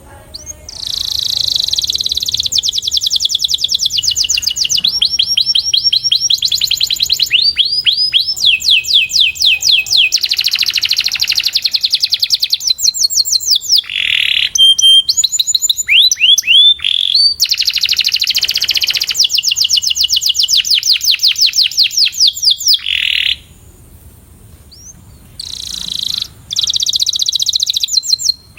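Domestic canary singing a 'puxada' training song: fast trills of rapidly repeated high notes, changing from phrase to phrase, with a pause of about two seconds near the end.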